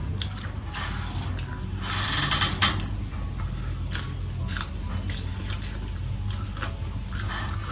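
Close-up chewing of crunchy fried scorpion: irregular crisp crunches and clicks, over a low steady hum.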